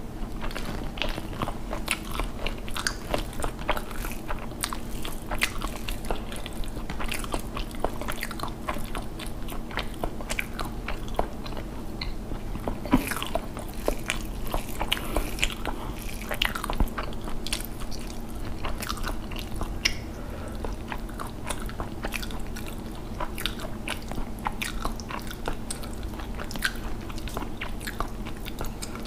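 Close-up chewing and wet mouth sounds of a person eating rice and fish curry by hand, with many quick smacks and clicks.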